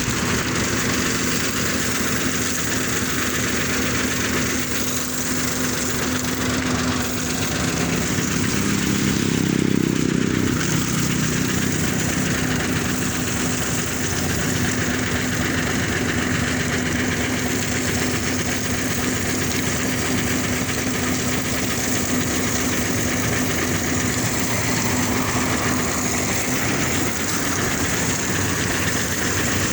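An engine running steadily, with a constant hum under a broad rushing hiss that swells briefly about ten seconds in.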